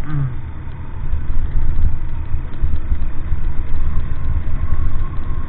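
Vehicle running on the move: a loud, uneven low rumble that continues without a break, with a faint steady whine coming in about halfway through.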